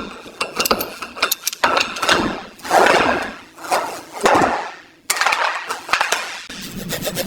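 Repeated scraping strokes with scattered clicks and knocks of hand-tool work. About five seconds in the sound changes abruptly to a steadier rasping noise.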